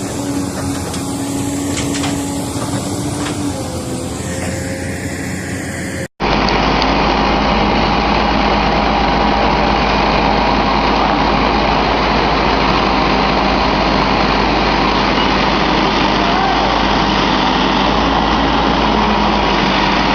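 Heavy-equipment engines running steadily. About six seconds in the sound drops out for an instant, and a different, duller engine drone with a strong low rumble follows.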